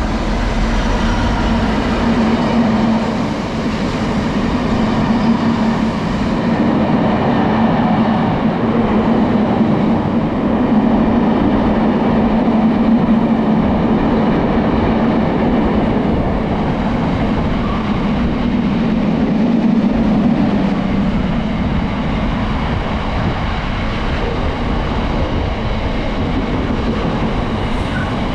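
A train passing through without stopping, a steady loud run of engine and wheel noise.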